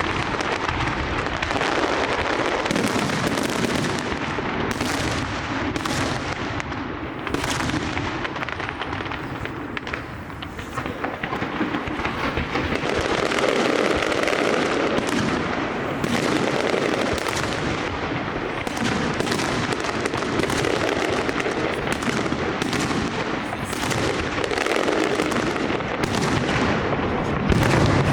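Large fireworks display: a dense, near-continuous barrage of bangs and crackling from shells bursting overhead. It eases briefly about ten seconds in, then builds again.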